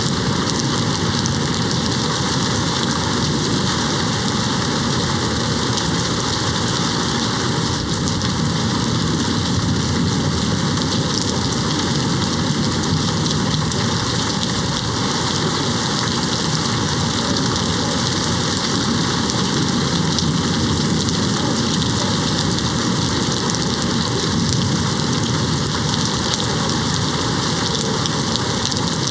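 Steady rain hitting a window, an even unbroken hiss with no thunder standing out.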